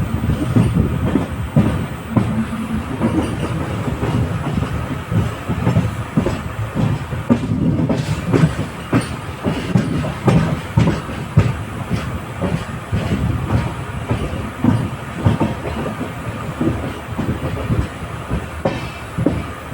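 Rumble of an LHB passenger coach's wheels running on the rails, with frequent uneven clicks and knocks.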